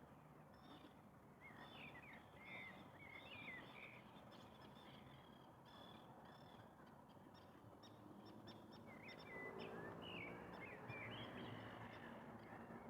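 Faint distant birds calling in two short bursts of quick, twisting chirps, one near the start and one past the middle, over a low steady background hiss.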